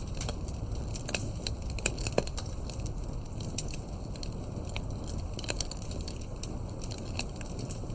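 Campfire crackling: burning wood snapping and popping at irregular moments over a steady low rumble, with the sharpest pops about two seconds in.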